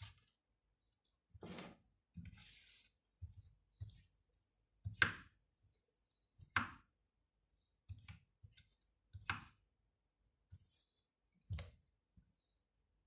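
Irregular clicks and knocks of small hand tools and parts being handled at a workbench, about a dozen separate sharp sounds, with a brief scraping rustle about two seconds in.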